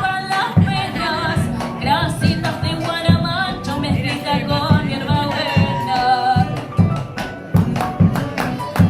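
A song: a singing voice over instrumental accompaniment with a steady beat.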